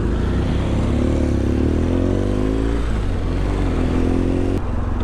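Motorcycle engine accelerating under way, its note rising, dropping at a gear change, then holding steady over rumble and wind noise. The engine note drops away suddenly near the end.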